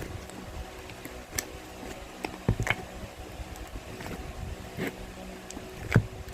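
Homemade slime being kneaded and squeezed by hand to mix in blue colouring, giving short wet pops and smacks every second or so over a steady low hum.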